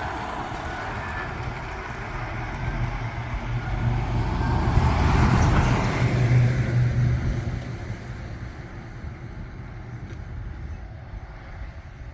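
A heavy truck's diesel engine passing close by, building to its loudest about halfway through and then fading away.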